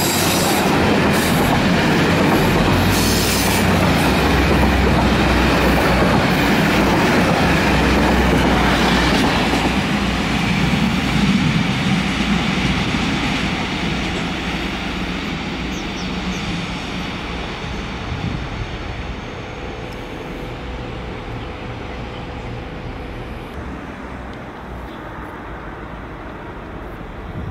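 A passenger train running close past the platform, its wheels clattering on the rails. The noise is loud for the first dozen seconds, then fades steadily as the train draws away.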